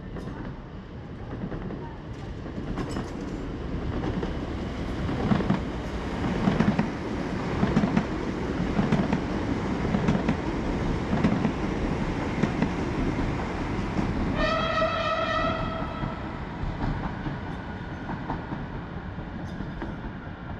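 A train passing below: a rising rumble with the wheels clacking over rail joints about once a second. It gives one horn blast of about a second and a half, two-thirds of the way through.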